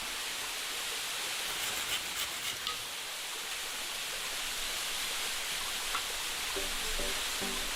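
Steady rush of a waterfall, with a few faint knocks about two seconds in.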